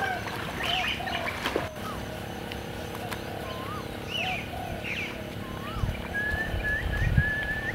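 Birds chirping and whistling: scattered short rising-and-falling whistles, then a quick run of repeated chirps over the last two seconds. A few low rumbles come in near the end, the loudest about seven seconds in.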